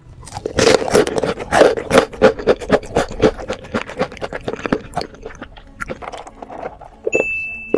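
Close-miked chewing of crispy fried chicken with the mouth closed: quick crunching bites in a steady chewing rhythm that grows softer toward the end. A short steady high beep starts near the end.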